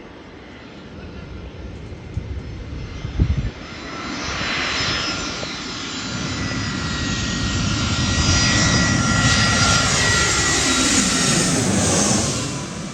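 Jet airliner passing low overhead: engine noise with a steady whine builds, peaks, then drops in pitch and fades near the end as it goes by. A brief low thump about three seconds in.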